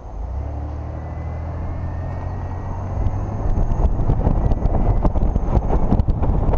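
2004 Chevrolet Monte Carlo's engine running as the car pulls away and picks up speed, heard from the rear of the car. From about three seconds in it grows louder, with wind buffeting the microphone.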